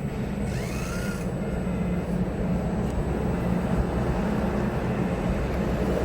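Radio-controlled scale model excavator running: a steady low hum of its electric hydraulic pump and motors, with a brief curving whine about half a second in.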